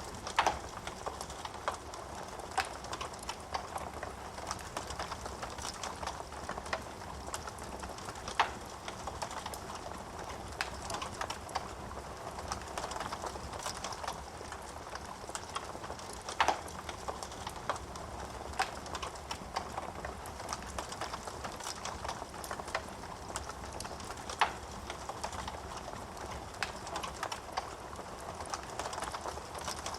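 Wood fire burning in a fireplace: a steady rushing of flames with irregular crackles and a few louder sharp pops of burning wood.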